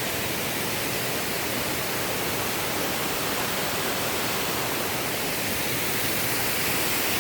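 Steady rush of fast-flowing water from a stream by a waterfall.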